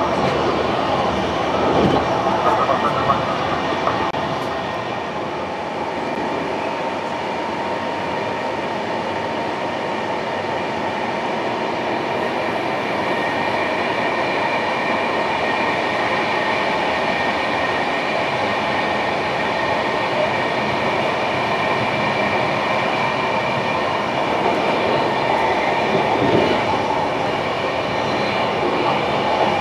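Passenger train running along the track: a steady rumble of wheels and running gear with a high, even whine held throughout.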